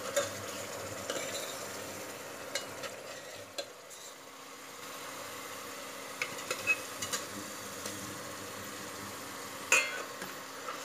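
Spiced onion-tomato masala sizzling steadily as it is fried in an aluminium pressure cooker and stirred with a steel ladle, with scattered sharp clinks of metal on metal. A small cluster of clinks comes around six to seven seconds in as potatoes are tipped in from a steel bowl, and the loudest clink comes near the end.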